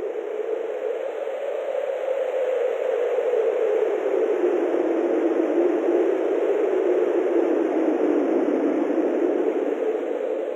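A steady rushing noise that swells in, drifts slowly lower in pitch and back up, then fades out.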